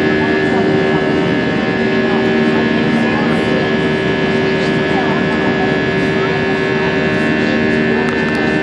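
Airbus A320's jet engines and rushing airflow heard from inside the cabin during the climb after takeoff: a steady loud noise with several constant tones running through it.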